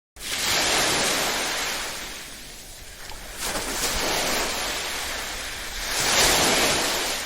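Sea waves washing onto the shore: a rushing noise that starts suddenly, then swells and falls back in three surges.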